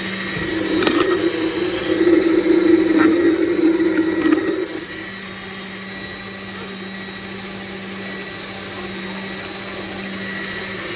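Cold-press slow juicer's motor running with a steady hum. It grows louder and rougher from about half a second in until about four and a half seconds in, with a few sharp knocks, then settles back to the plain hum.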